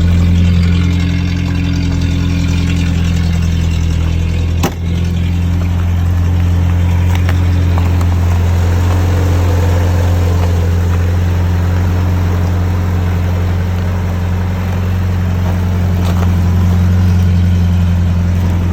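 Datsun 620 pickup's four-cylinder engine idling steadily just after a cold start in freezing weather.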